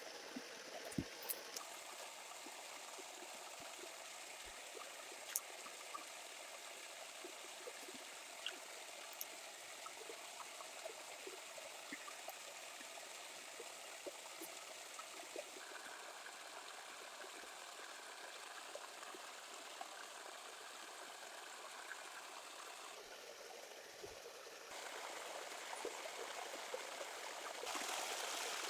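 Steady trickle of running water, with scattered faint clicks and taps. The background changes abruptly a few times, and the last few seconds are louder.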